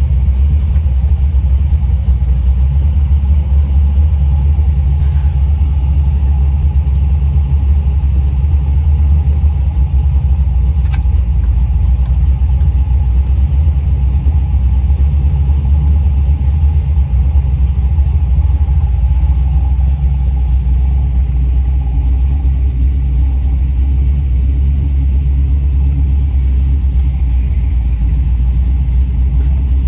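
The 1962 Chevrolet Biscayne's engine idling with a steady low rumble, heard from inside the cabin. A few faint clicks sound over it.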